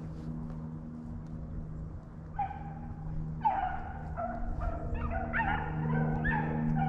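Rabbit hounds baying on a rabbit's trail: short, falling-pitched bawls that start about a third of the way in and come thicker and overlapping towards the end, over a steady low hum.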